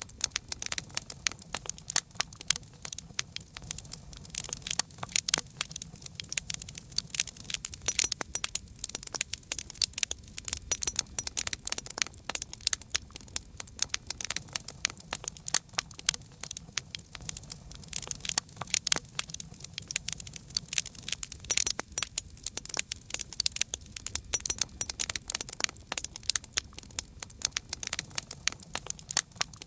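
Campfire crackling: a steady stream of irregular sharp pops and snaps, several a second, over a faint low rumble.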